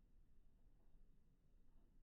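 Near silence: a faint, steady low rumble.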